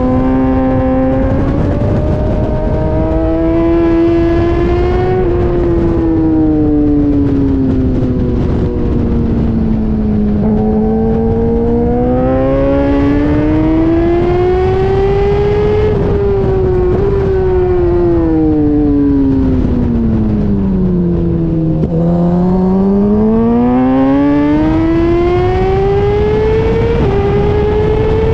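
Sport bike's inline-four engine running hard on track, its pitch climbing under acceleration and falling away under braking over several seconds at a time, with a few brief jumps in pitch at gear changes.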